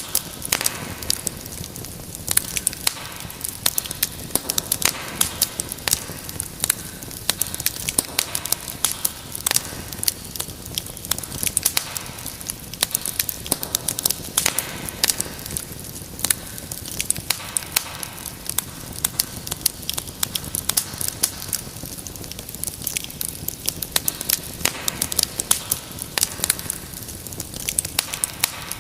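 Wood fire in a fireplace crackling: a steady hiss of flame with dense, irregular sharp pops and snaps.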